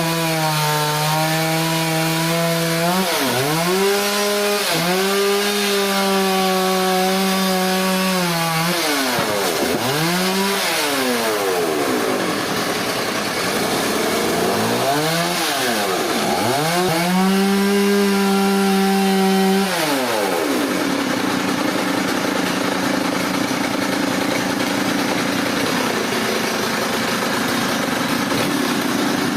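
A chainsaw cutting through a log. Its engine holds a high steady pitch, then dips and climbs back several times as the chain bogs down in the wood and recovers. After about twenty seconds the clear engine note gives way to a steady, rougher running sound.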